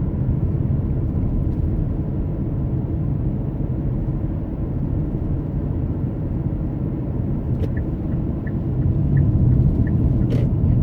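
Steady low rumble of road and engine noise inside a moving car. About three-quarters of the way through, a run of faint regular ticks starts, and a sharper click follows near the end.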